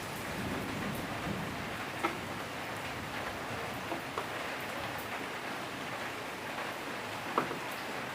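Steady rain falling, an even hiss, with three faint taps spread through it.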